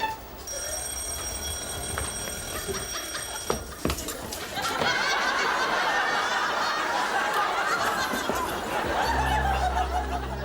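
Studio audience laughing for the second half, after a few seconds of a steady high ringing tone and a couple of sharp knocks. Low music comes in near the end.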